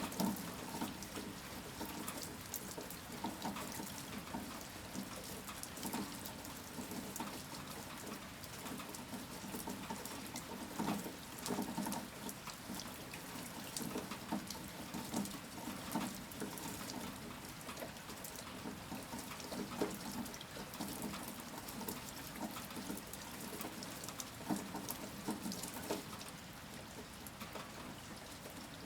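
Heavy rain, with water running and dripping and many individual drops splashing sharply on hard surfaces.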